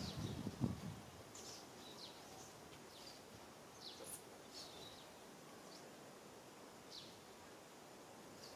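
Faint background with short, high, downward-sweeping bird chirps scattered throughout, and a low rumble ending in a single thump under a second in.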